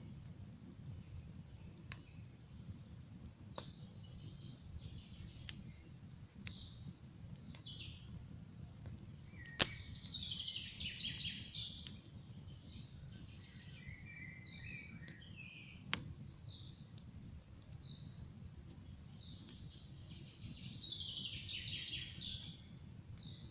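Wood campfire crackling, with scattered sharp pops (the loudest about ten seconds in) over a steady low rumble. Songbirds sing throughout in short chirps and phrases, including two fast descending trills, one about ten seconds in and one near the end.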